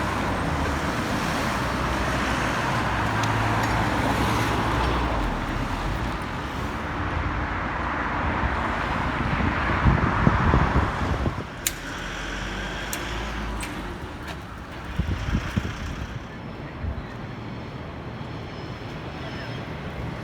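Road traffic passing on a city street, a steady rush of vehicles that swells about ten seconds in and then drops off sharply, leaving a quieter stretch with a few sharp clicks.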